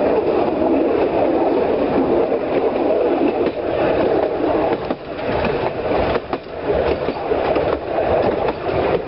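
Narrow-gauge vintage electric train with wooden carriages running along the track, heard from aboard: a steady rumble of wheels on rails with scattered clacks and knocks.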